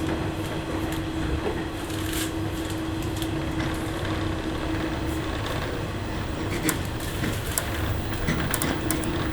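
JR 103-series electric train running, heard from inside the carriage: a steady low rumble with a constant hum, and scattered sharp clicks, several of them near the end.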